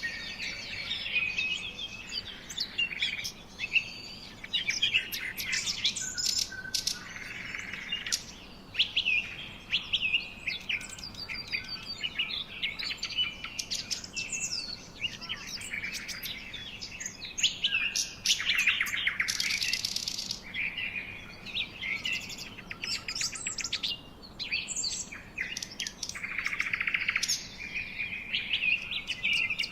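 Several songbirds singing and chirping at once, a dense overlapping chorus of short chirps, trills and rapid repeated notes.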